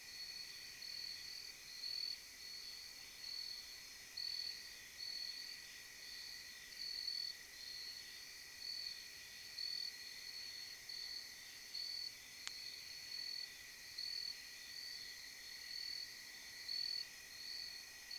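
Crickets chirping in an even rhythm, about one high chirp a second, over a steady high-pitched insect drone. One faint click comes about twelve seconds in.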